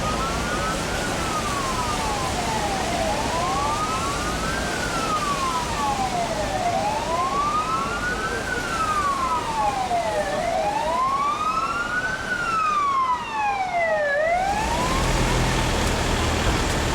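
Emergency vehicle siren wailing slowly up and down, about one rise and fall every four seconds, with two tones slightly out of step. It cuts off about two seconds before the end, leaving a steady rushing noise with a low rumble.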